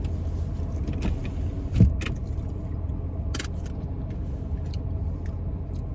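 Steady low hum inside a car cabin, with a few short rustles and clicks and one low thump about two seconds in.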